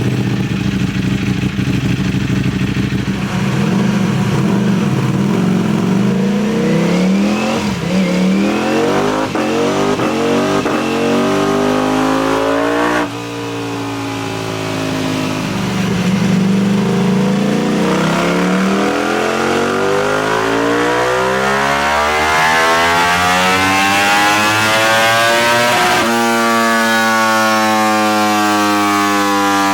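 Ducati V4 motorcycle engine through an aftermarket CS Racing exhaust, running low and steady for the first few seconds before the revs climb. About 13 seconds in the pitch breaks off suddenly, as at a gear change, then climbs again, with another abrupt change near the end.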